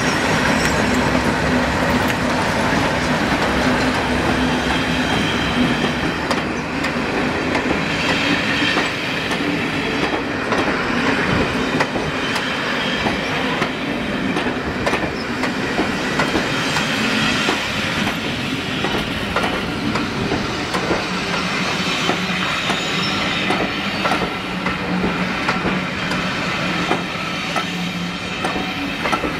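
A Class 37 diesel-hauled passenger train passing close by. The locomotive's English Electric engine is heard as it goes past at the start, then the coaches roll by with steady wheel noise and repeated clicks of wheels over rail joints.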